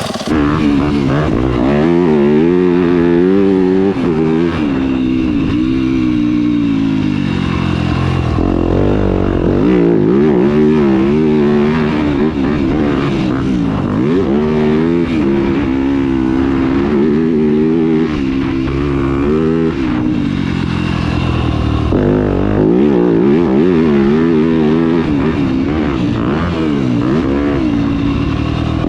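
2021 Yamaha YZ250F's 250 cc single-cylinder four-stroke engine breathing through a Yoshimura RS-12 full exhaust system, loud, its pitch climbing and dropping over and over as the throttle is worked up and down.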